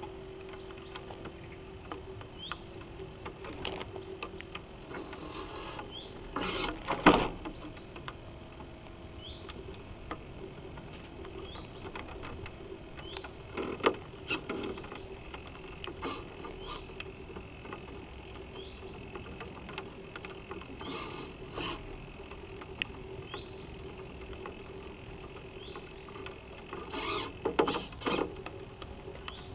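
Water splashing and slapping against the hull of a North Wind 360 radio-controlled sailboat in a few loud bursts, heard through its onboard camera. Throughout, there are short rising chirps every couple of seconds and a steady low hum.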